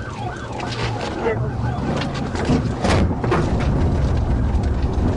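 Police patrol car's engine and road rumble during a slow pursuit. A siren warbles early on and fades, with indistinct voices and a few clicks over it.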